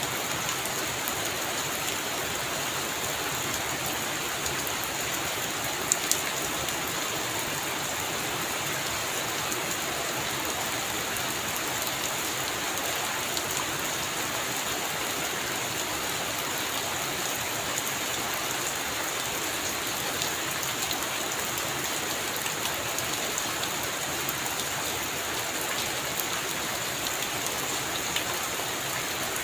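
Heavy rain falling steadily, a dense even hiss flecked with small drop ticks, with two sharp ticks close together about six seconds in.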